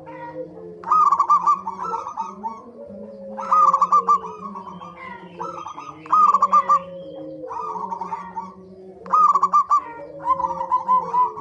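Zebra doves (perkutut) cooing: a rapid run of staccato notes that repeats about every two to three seconds, over lower, steadier cooing from other birds.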